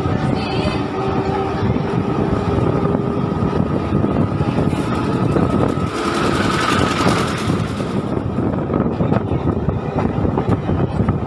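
MEMU electric passenger train running along the track, a steady rumble of wheels on rails that swells into a louder hissing rush for a few seconds midway.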